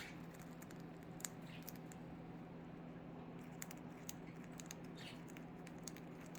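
Budgie pecking and nibbling at a treat: faint, scattered clicks of its beak over a steady low hum.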